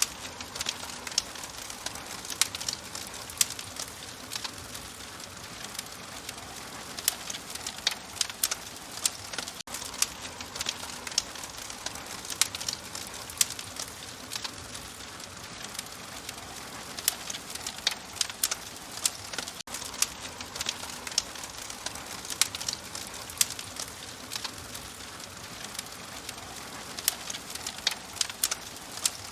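Open wood fire crackling: irregular sharp pops and snaps, several a second, over a steady soft hiss.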